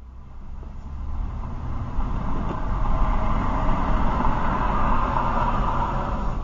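Steady vehicle running noise, a low rumble with road hiss, swelling over the first couple of seconds and then holding level.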